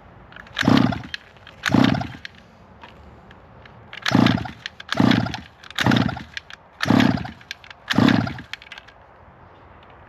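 Tiny motorbike's small engine being cranked over seven times in short bursts, two then five, without catching. The crew suspects it is flooded from a sticky carburetor needle and seat.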